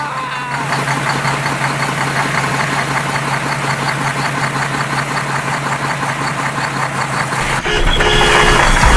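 A vehicle engine idling with a steady, fast, even chug. About seven and a half seconds in, a louder, deeper thumping sound with short held tones takes over.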